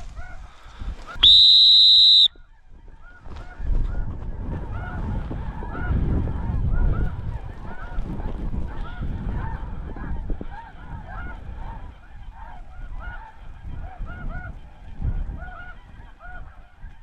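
A flock of snow geese calling, a dense chorus of repeated high yelping honks, with wind rumbling on the microphone. About a second in, a loud single whistle blast cuts in for about a second.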